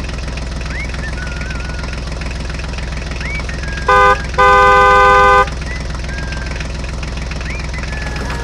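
Vehicle horn honking twice about four seconds in, a short toot then a longer one of about a second, over a tractor engine running steadily.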